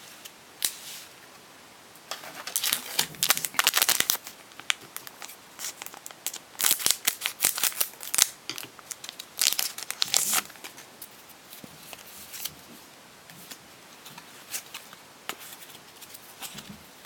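Foil booster-pack wrapper of Pokémon trading cards being torn open and crinkled, in irregular bursts of crackling, the loudest a couple of seconds in and again through the middle.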